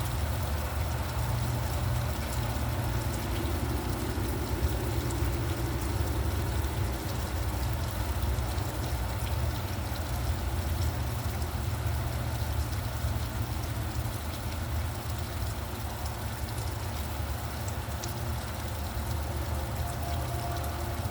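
Steady rain hissing, with a low rumble of road traffic underneath.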